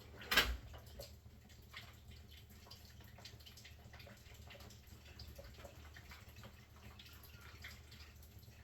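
A single sharp knock about half a second in, then faint scattered ticks and water drips over a low steady hum.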